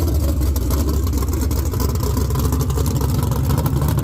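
Drag-racing car engine running loud and steady with a low, rapid rumble.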